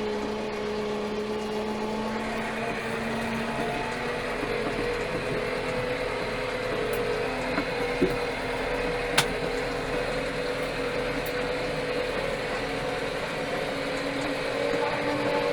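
Steyr 4075 Kompakt tractor's four-cylinder FPT diesel engine running steadily, with a mechanical hum, and a few sharp clicks about halfway through.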